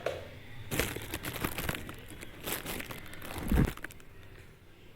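Crinkling, crackling handling noises for about three seconds, ending in a dull thump about three and a half seconds in.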